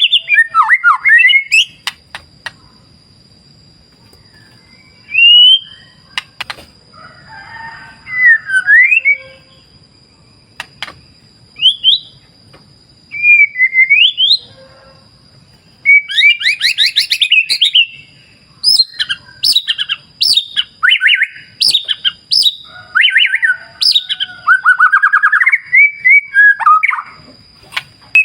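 White-rumped shama (murai batu) singing: scattered whistled phrases and a few sharp clicks at first, then fast rattling trills and rapid runs of notes through the last dozen seconds.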